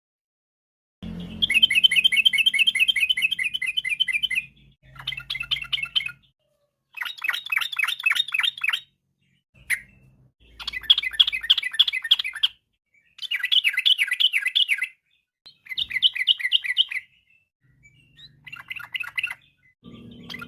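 Yellow-vented bulbul (trucukan) singing a series of rapid, bubbly chattering phrases, each one to three seconds long, with short pauses between them.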